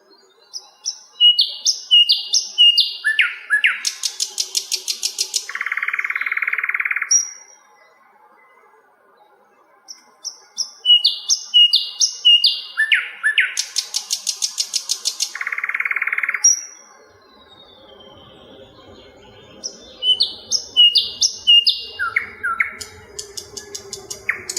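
Sikatan londo flycatcher singing a lively phrase three times, roughly every nine seconds. Each phrase is a quick run of clear notes stepping downward, followed by a fast high rattle and a short harsh buzz.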